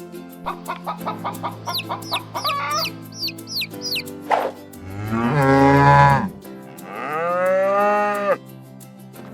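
Farm-animal sound effects over steady background music: a quick run of poultry clucks with high chirps, then two long cow moos, the first one the loudest.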